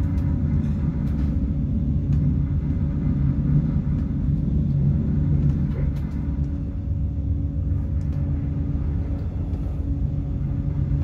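Steady low rumble of a regional passenger train heard from inside the carriage while it runs along the line, with a steady hum over it and a few faint ticks.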